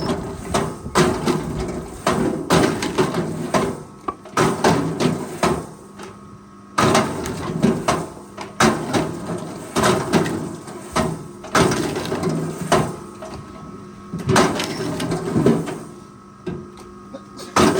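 Forestry machine at work: a steady engine hum under repeated, irregular loud knocks and clatter.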